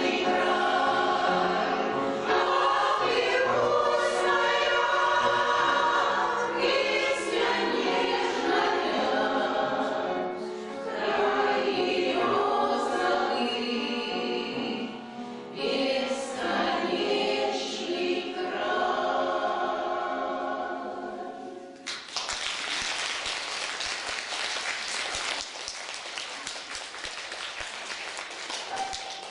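A choir singing a song, which ends about 22 seconds in, followed by audience applause.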